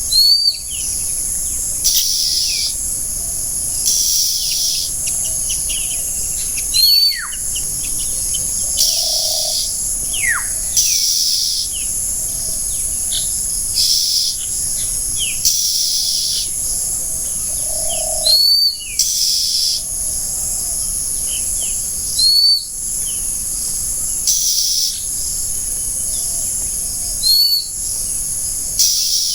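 Forest birds calling over a steady high-pitched hiss, like an insect chorus. Short upward-sweeping chirps come every few seconds, and two long falling whistles come about a third of the way in.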